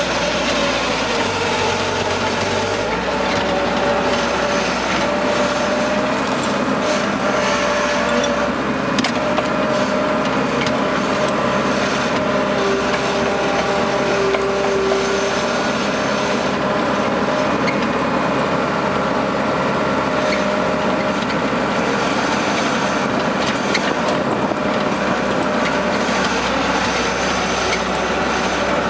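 Case skid-steer loader's diesel engine running steadily under work, with a steady whine and a few short clanks and knocks.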